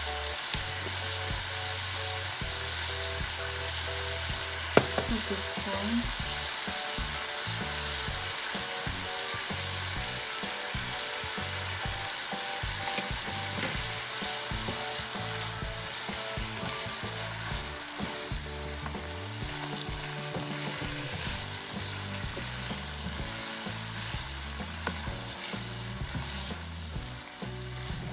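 Scallops and vegetables sizzling as they stir-fry in oil in a ceramic-coated pan, with a sharp clack about five seconds in. The sizzle eases slightly in the second half, and the food is stirred with a silicone spatula near the end.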